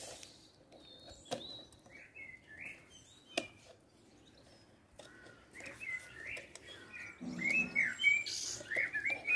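Small birds chirping and twittering, sparse at first and busier through the second half, with a few sharp clicks.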